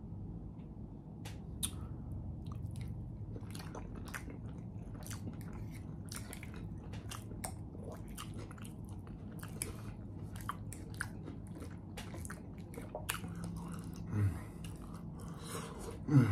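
A person chewing food, with many small wet clicks from the mouth throughout.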